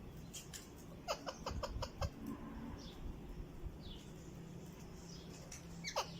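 Grey parrot making a quick run of about six short clicks a second in, then a short falling whistle near the end.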